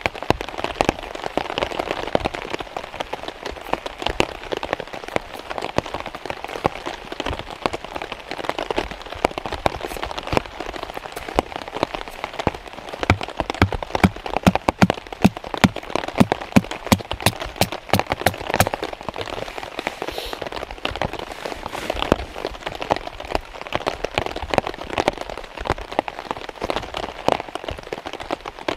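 Heavy rain falling steadily on a tarp shelter, with many sharp drop hits that come thickest in the middle stretch.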